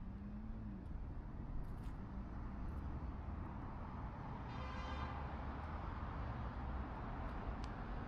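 Steady low outdoor rumble, with a short high-pitched tone about four and a half seconds in.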